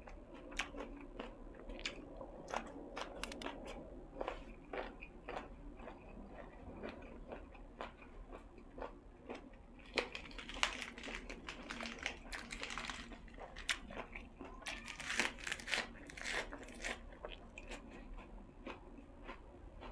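A person chewing food close to the microphone: wet mouth clicks and bites, with bouts of crisp crunching about ten seconds in and again near fifteen seconds.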